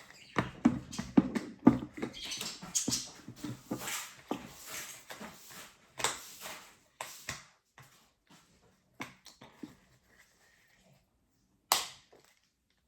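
Small plastic toy pieces and packaging being handled: a busy run of clicks, taps and rustling for several seconds, then scattered clicks, with one sharper click near the end.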